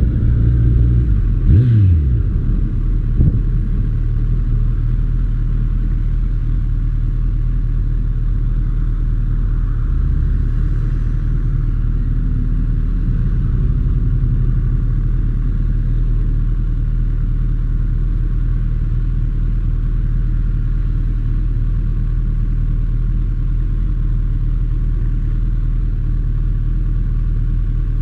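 Motorcycle engine idling steadily, a low even rumble, after a brief drop in pitch about two seconds in as the revs fall.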